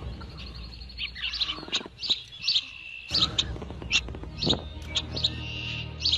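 Birds chirping in short, sharp calls, roughly two a second, over a low steady hum.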